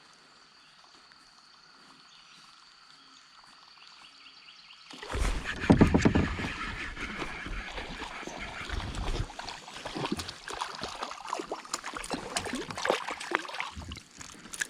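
Water splashing and knocking around a small fishing kayak, starting suddenly about five seconds in and going on irregularly, after a quiet stretch with a faint steady high tone.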